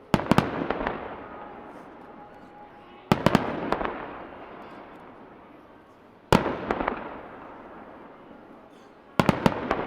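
Aerial firework shells bursting in four salvos about three seconds apart, each a quick cluster of sharp bangs that fades into a crackling tail.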